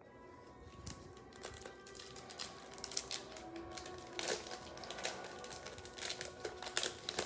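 Irregular crinkling and rustling of trading-card packaging and cards being handled, with faint background music underneath.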